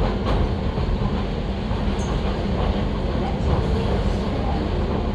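Docklands Light Railway train running along the track, heard from inside the front car: a steady low rumble of wheels and running gear, with a couple of faint clicks near the start.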